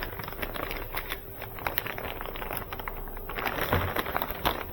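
Irregular rustling and small clicks of cables and loose items being handled and sorted, with a brief low thump near the end.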